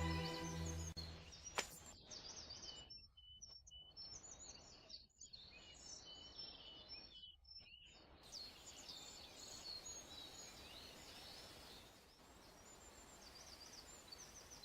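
Music fades out in the first second, and after a single click, several small birds chirp over a faint, steady outdoor background.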